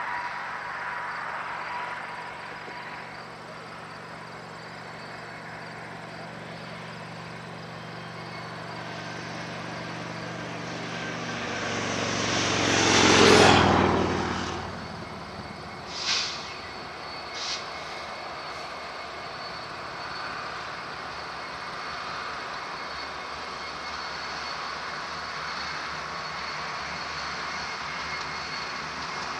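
Union Pacific passenger train going by: the diesel-electric locomotive's engine drone builds as it approaches, is loudest about 13 seconds in as it passes closest, then gives way to a steady rumble of the passenger cars' wheels on the rails. Two brief sharp high sounds come a few seconds after the locomotive passes.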